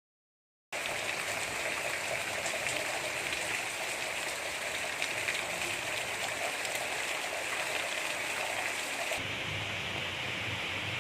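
Steady gentle rain, an even hiss of falling drops. It comes in out of a brief dead silence at the very start. A couple of seconds before the end it turns duller, with less hiss and a low rumble underneath.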